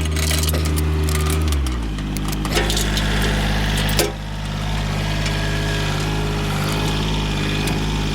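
Tractor engine running steadily; its pitch drops about a second and a half in, as the engine slows, then holds. A few sharp metallic clanks come through, the loudest about four seconds in.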